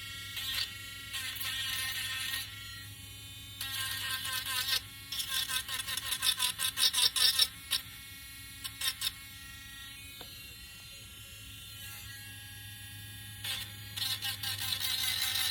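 Small electric sander whining against wood in bursts, cutting in and out, over a steady low hum.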